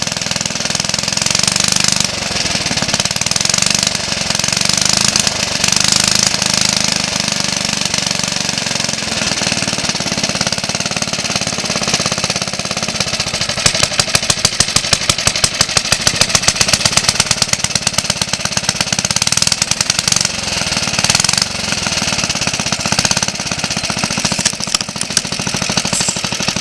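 Suffolk Colt lawnmower's small single-cylinder engine running on its own with a fast, even popping beat, freshly rebuilt and running for the first time in about 20 years. About halfway through the beat grows louder and sharper for several seconds, then eases back to a steady tick-over.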